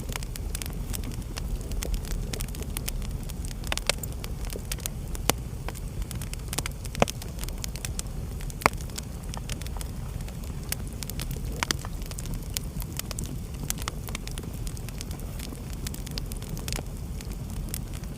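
Wood fire crackling in a fireplace: a steady low rumble of burning with frequent irregular snaps and pops, a few sharper pops standing out.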